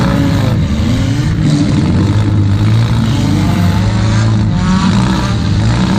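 Toyota Camry demolition derby car's engine revving hard, its pitch rising and falling as the car is driven, heard from inside the stripped-out cab.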